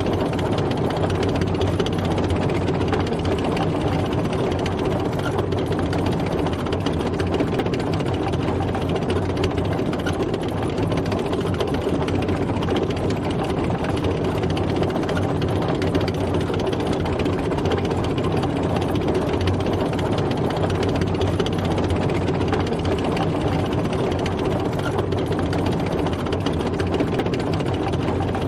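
Military tank driving, its engine running at a steady pitch with no change in speed.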